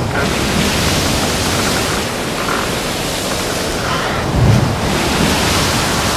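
Steady rush of wind and sea water with no clear pitch, with two low thuds, one at the start and one about four and a half seconds in.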